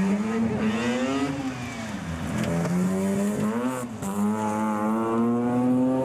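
Mazda RX3's rotary engine revving hard under full throttle. Its pitch climbs, falls back about two seconds in and again about four seconds in, then climbs steadily.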